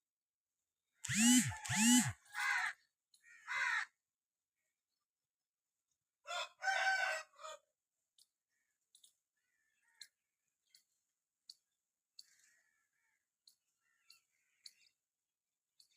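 Loud, harsh bird calls in two bouts, one about a second in and another around six seconds in, followed by scattered faint short chirps and clicks.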